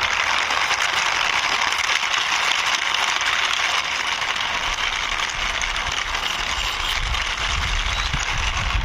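Toy drum truck's plastic wheels rolling across a rough surface as it is pushed by hand: a steady gritty rolling noise, with a low rumble joining in over the last few seconds.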